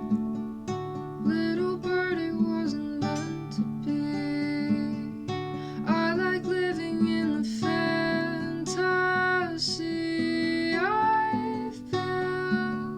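Acoustic guitar playing the accompaniment of a gentle original song.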